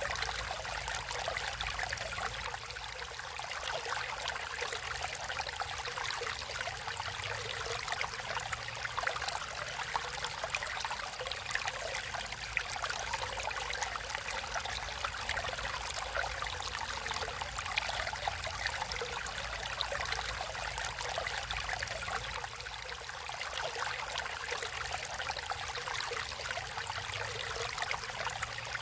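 Natural running water, a stream flowing and splashing with a steady trickling rush.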